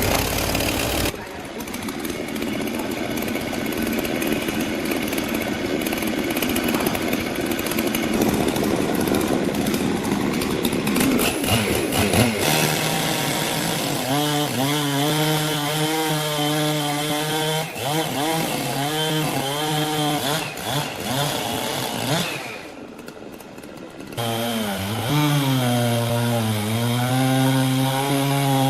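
Chainsaw running under load and cutting wood, its engine pitch sagging and recovering as it bites. It eases off briefly about three-quarters of the way through, then runs up again with the pitch dipping as it cuts.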